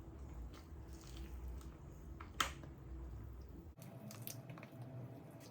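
Faint close-miked chewing and mouth sounds of a person eating, with scattered small clicks and one sharper click about two and a half seconds in.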